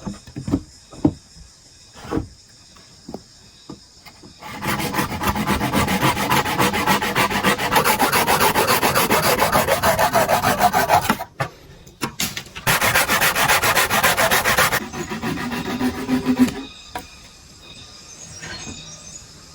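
A blade rasping against bamboo in fast repeated strokes, after a few light knocks; the rasping breaks off briefly about halfway and stops a few seconds before the end.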